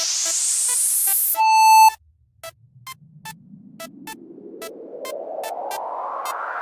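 Electronic music: a rising synth noise sweep leads into a brief loud sustained synth tone that cuts off suddenly about two seconds in, followed by sparse percussive ticks over a second slow rising sweep.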